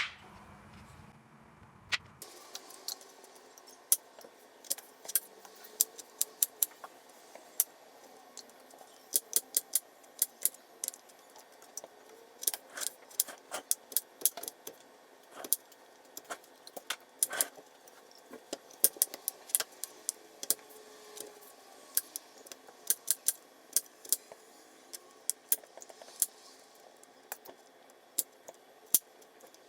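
Kitchen work noise: irregular sharp clicks and clinks of utensils and dishes, a few a second, with short pauses between.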